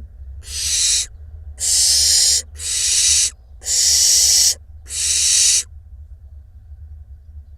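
Barn owl fledglings giving five harsh, hissing calls in a row, each under a second long, that stop a little past halfway. This is the hissing food-begging call of young barn owls. A steady low hum lies underneath.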